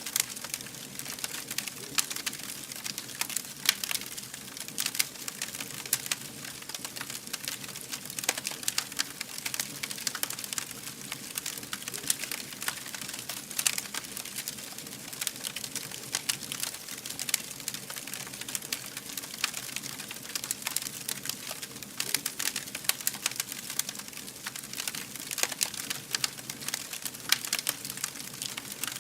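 Fire crackling, with many small sharp pops coming irregularly over a soft, steady hiss.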